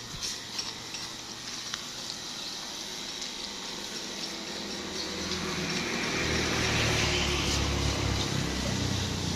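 Water spraying and splashing in a steady hiss. From about five seconds in, a low motor-like hum joins it and the sound grows a little louder.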